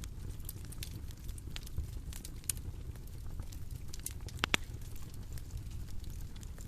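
Bonfire crackling: a steady low rumble of burning with scattered sharp snaps of wood, and one louder pop past the middle.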